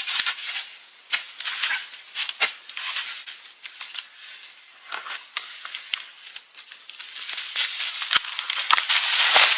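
Irregular crackling and rustling made of many small sharp clicks, growing denser and louder near the end.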